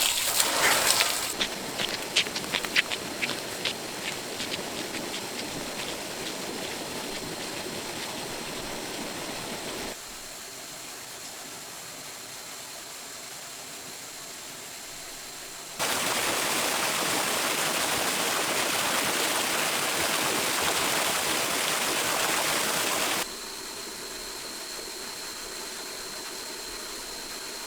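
Splashing water in the first couple of seconds, then a stream's steady rushing, which jumps abruptly between quieter and louder stretches. A faint steady high tone joins near the end.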